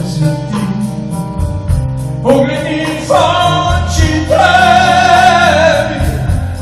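Rock band playing with a male lead singer holding long sung notes with vibrato over a steady bass line.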